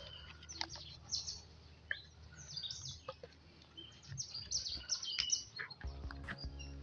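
Small birds chirping on and off in the background, with a few faint clicks and taps.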